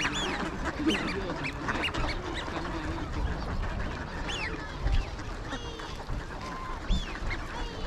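A large flock of wild ducks calling: many short, overlapping quacks and whistled notes, with a couple of dull low bumps about five and seven seconds in.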